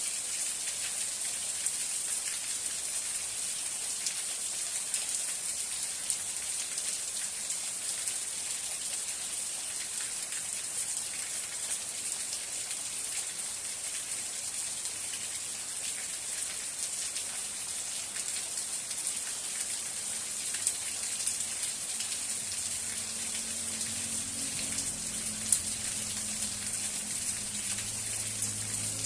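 Steady rain falling, an even hiss of many fine drops with scattered louder drips. A faint low hum joins in during the last few seconds.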